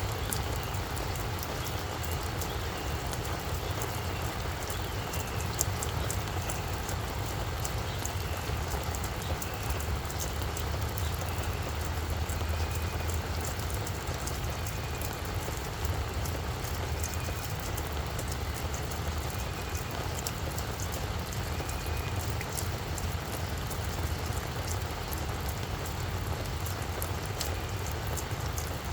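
Rain falling steadily on a flower bed, the drops pattering on plants and soil over a steady low rumble. A faint short high chirp repeats every second or two for much of the time.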